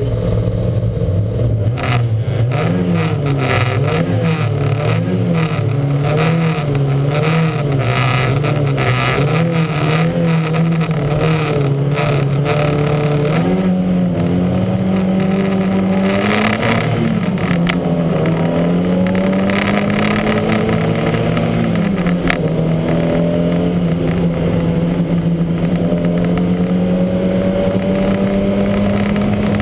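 Lancia Montecarlo's four-cylinder race engine pulling away from the start, its note swelling loudly about two seconds in. The pitch wavers up and down roughly once a second for the first several seconds, then climbs in long rising sweeps broken by gear changes as the car accelerates.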